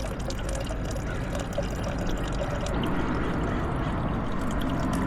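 Water pouring steadily into a bottle, for mixing a protein drink.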